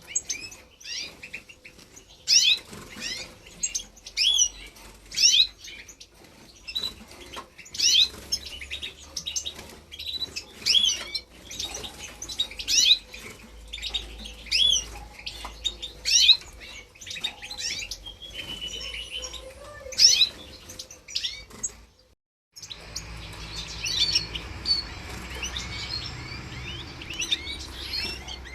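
Young goldfinch × canary mules chirping: many short, quick twittering calls, repeated throughout. They break off for a moment about three-quarters of the way through, then start again more densely over a faint low hum.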